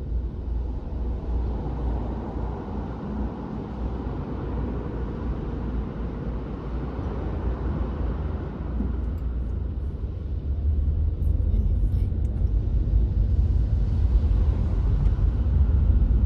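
Road noise inside a moving car: a steady low rumble of engine and tyres, growing louder about ten seconds in.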